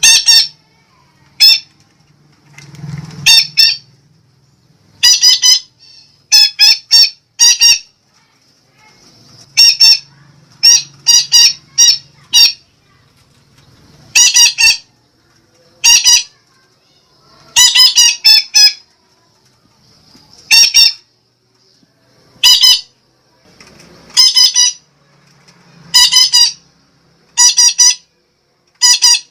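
Sumatran betet parakeet (red-breasted parakeet) giving loud, harsh squawking calls, short calls in quick groups of one to four with pauses of a second or two between.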